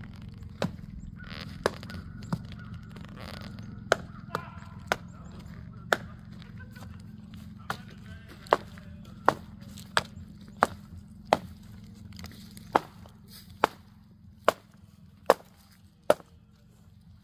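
A series of sharp chopping or knocking strikes, irregular at first, then settling into a steady beat of a little more than one a second over a low steady hum.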